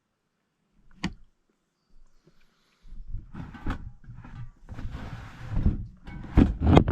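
Camp cooking gear being handled and set up: a single sharp click about a second in, then rustling, clatter and knocks, with the loudest thumps near the end.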